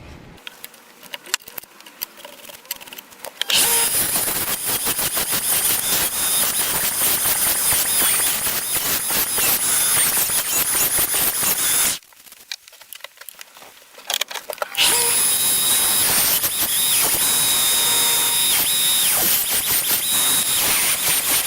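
Power tool grinding, a high-pitched squeal over dense rasping noise, in two long runs with a pause of about three seconds between them; a few faint clicks before the first run starts.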